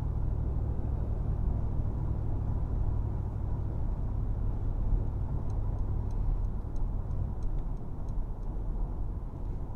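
Steady low road and engine rumble inside the cabin of a Mercedes-AMG G63 cruising with its V8, with a few faint light ticks about halfway through.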